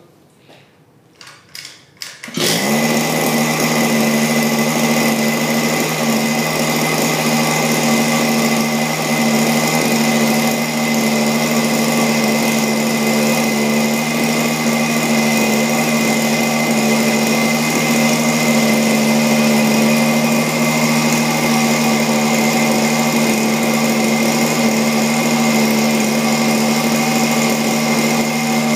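Go-ped GP290 small two-stroke engine pull-started: a few short sharp sounds, then it catches about two and a half seconds in and runs at a steady, unchanging speed through its stock muffler.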